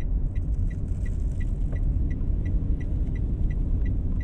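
Car's turn-signal indicator ticking evenly, about three clicks a second, over the low rumble of the engine and road heard inside the cabin, as the car signals to pull over and park.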